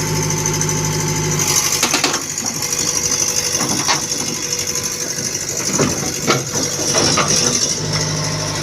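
Excavator engine running steadily; its note changes about a second and a half in, followed by several sharp knocks and clanks over the next few seconds.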